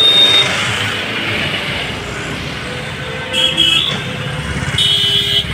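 Road traffic with a steady engine and tyre rumble. Vehicle horns beep briefly about three and a half seconds in and again near the end.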